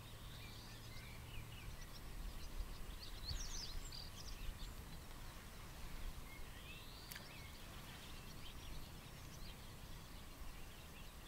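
Faint calls of several small birds: short chirps and whistled notes, densest in the first few seconds and again around the middle, with one sharp click about seven seconds in.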